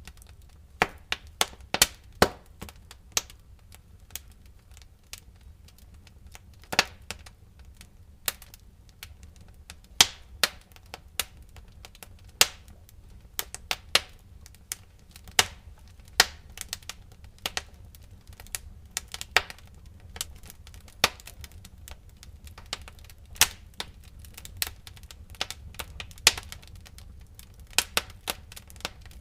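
Wood fire crackling in a fireplace: irregular sharp pops and snaps, sometimes several in quick succession, over a low steady rumble of the flames.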